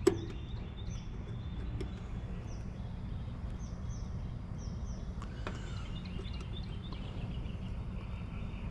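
Outdoor ambience: a steady low rumble, with a bird's short high chirps, each falling in pitch and repeated several times through the middle. A single sharp click comes right at the start.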